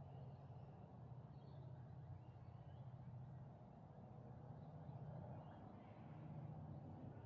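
Near silence outdoors: a faint steady low hum, with a few faint, scattered bird chirps.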